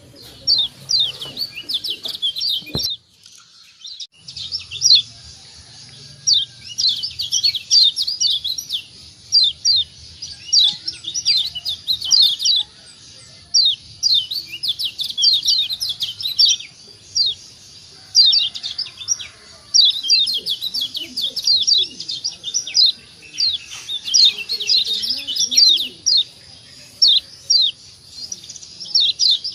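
Kecial kuning (Lombok yellow white-eye) calling in rapid bursts of high, chirping 'ciak' notes, each burst a quick run of short downward-sweeping notes, with short pauses between bursts and a brief break with a click about three seconds in.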